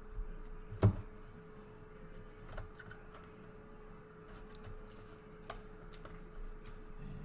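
Light clicks and taps of trading cards and plastic card sleeves being handled, with one louder knock about a second in, over a faint steady hum.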